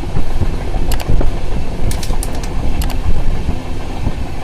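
Indian Railways passenger train running at speed, heard from a window: a loud, steady rumble with wind noise and sharp clicks of the wheels crossing rail joints, several coming close together about two seconds in.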